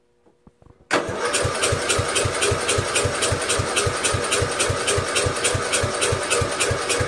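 Electric starter cranking a Briggs & Stratton 12.5 hp flathead mower engine, starting about a second in, with an even beat of compression pulses about five times a second. The engine does not catch: a no-start that the owner puts down to no spark, though it is getting fuel.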